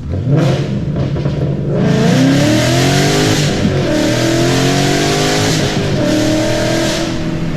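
2013 Ford Mustang GT's 5.0 V8 through long-tube headers and Roush axle-back mufflers, accelerating hard: the revs climb, dip at each upshift and climb again, three pulls in all, with a loud exhaust note.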